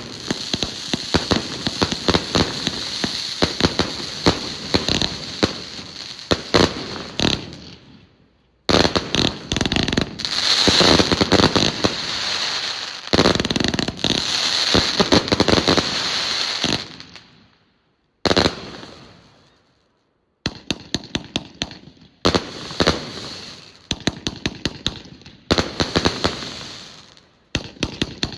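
Fireworks going off in dense, rapid runs of bangs and crackles over a hiss. The runs break off suddenly and start again several times.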